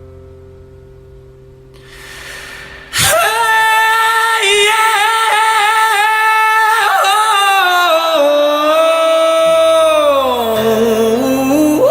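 An acoustic guitar chord rings out and fades, then about three seconds in a single voice sings a long wordless note. The note wavers and slides down in pitch near the end.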